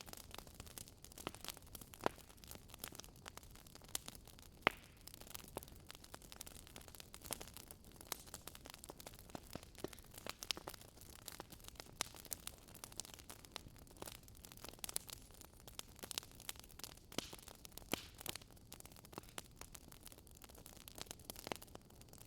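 Campfire burning: wood crackling with frequent irregular sharp pops over a soft steady hiss, one louder pop about four and a half seconds in.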